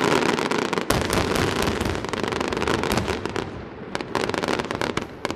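Aerial fireworks: a dense volley of rapid crackling reports with a sharp bang about a second in, thinning out and growing quieter after about three and a half seconds, with another short flurry of crackles near the end.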